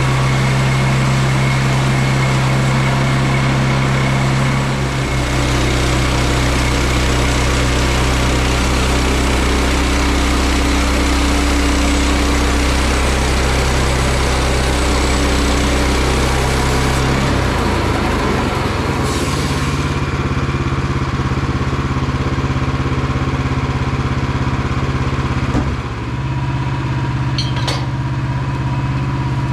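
Gas engine of a Woodland Mills HM122 portable bandsaw mill running steadily, its speed changing about five seconds in and again about two-thirds of the way through.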